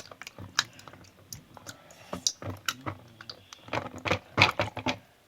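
A water-soaked squishy stress ball being rolled and squeezed by hand: a run of irregular soft clicks and taps, busiest about four seconds in, stopping just before the end.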